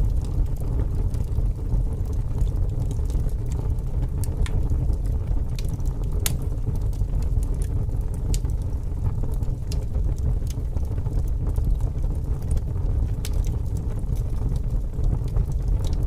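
Wood fire crackling, with sharp pops scattered irregularly throughout, over a steady low rumble of strong wind.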